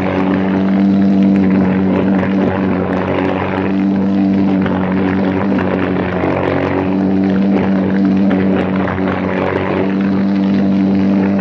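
Briggs & Stratton Animal single-cylinder four-stroke kart engine running hard at high, nearly steady revs during a race, with only slight dips in pitch.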